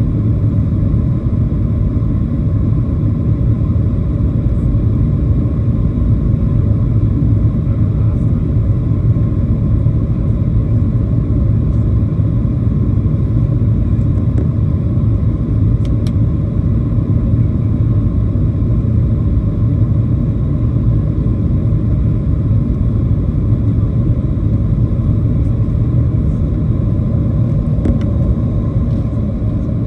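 Steady low rumble of a Boeing 737-700 heard from inside the passenger cabin: its CFM56-7B engines and the airframe running evenly, with a faint tick or two.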